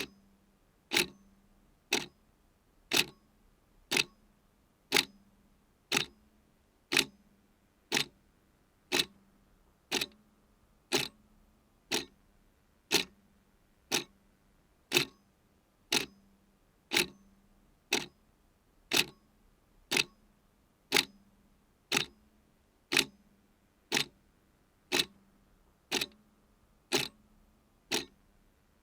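A clock ticking steadily, one tick a second.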